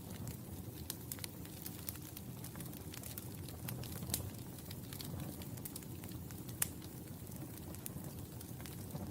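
Wood fire burning in a fireplace, a steady low rumble of flames with irregular sharp crackles and pops; two louder pops stand out about four and six and a half seconds in.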